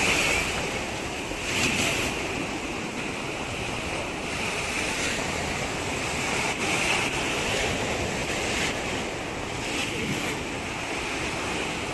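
Ocean surf breaking on the shore, a steady wash of noise that swells and eases every few seconds as the waves come in.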